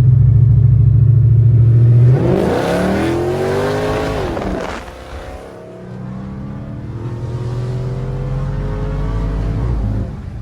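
Supercharged muscle car engine running loudly at a steady low note, then revving hard under acceleration for about two and a half seconds before letting off. After a short lull it pulls up again in a slower, longer climb that ends near the close.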